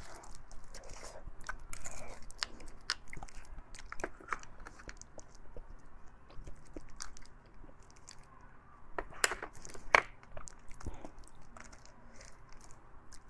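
Close-miked mouth sounds of chewing and biting beef bone marrow and fatty meat: a run of sharp, wet clicks and small crunches. Two louder bites come about nine and ten seconds in.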